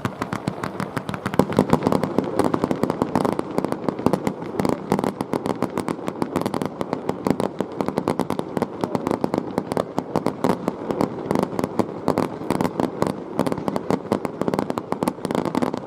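Fireworks display: a dense, continuous barrage of many rapid bangs and crackles.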